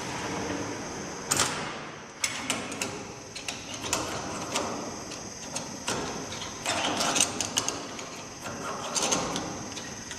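Irregular metallic clicks, taps and knocks of tools and parts being handled, in small clusters, over a steady high-pitched whine.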